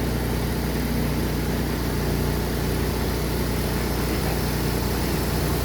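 Steady low machine hum, even in pitch and level.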